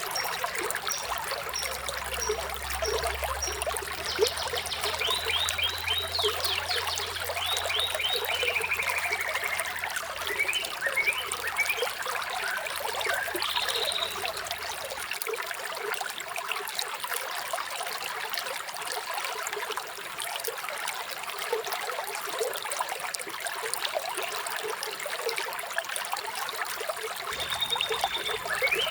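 Water trickling and babbling steadily, with birds chirping over it: a run of short high notes in the first few seconds, then several quick falling trills, and a few single calls later.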